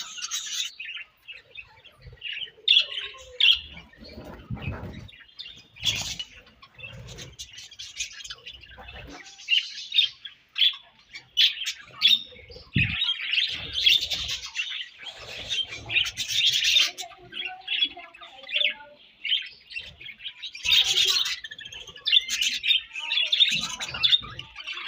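Budgerigars chirping and squawking in quick, overlapping short calls, with a few low thumps among them.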